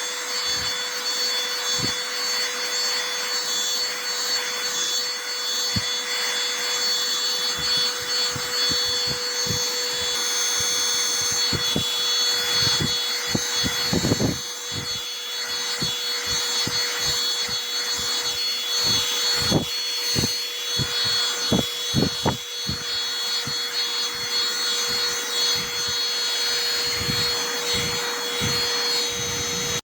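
SIMWAL cordless handheld vacuum cleaner running with a steady motor whine, over many irregular short knocks, thickest in the middle.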